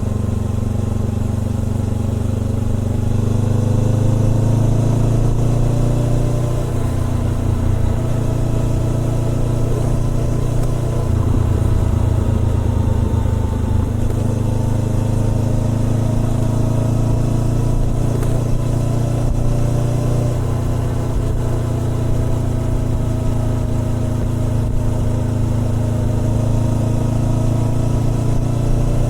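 Honda CBR400R's parallel-twin engine running through a Trick Star Ikazuchi aftermarket exhaust. It holds a fairly steady note, with gentle rises and dips in revs.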